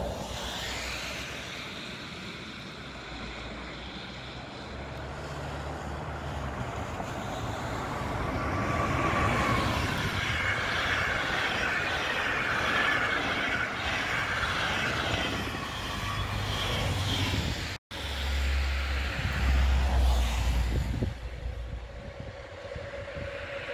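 InterCity passenger train with PKP coaches rushing past on the rails, its noise building to its loudest about ten seconds in and fading away. After a sudden cut near the end, a freight train's low rumble as it approaches.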